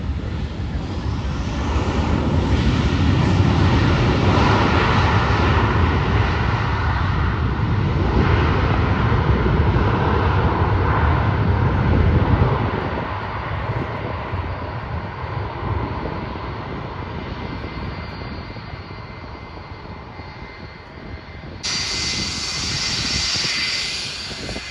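An airliner's engines heard as it passes close by: a loud, dense rush that builds over the first two seconds, holds for about ten seconds, then fades away. About 22 seconds in, the sound changes abruptly to a brighter hiss.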